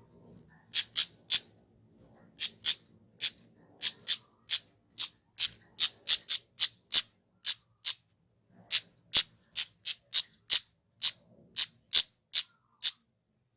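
Kemade (flowerpecker) giving a long series of short, sharp, high 'cit' call notes, about two to three a second, with a brief pause about eight seconds in.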